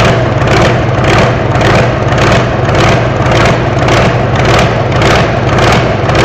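Truck-pulling V8 engine running steadily and loudly, with a regular pulsing surge about twice a second over a deep, even drone.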